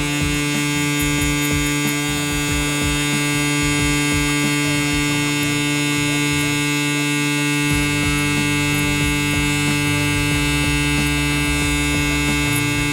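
Stylecraft Instinct hair clipper fitted with an Echo Blade, buzzing steadily as it cuts hair. The faint crunch of hair being cut runs under the motor hum.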